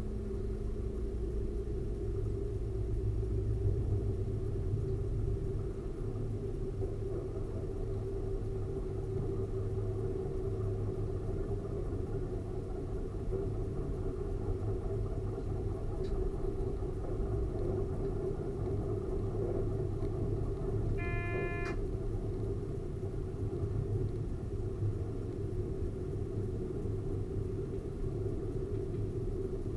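Train running along the line, heard from the driver's cab: a steady low rumble of the railcar and its wheels on the rails. About two-thirds of the way through, a short pitched tone sounds for under a second.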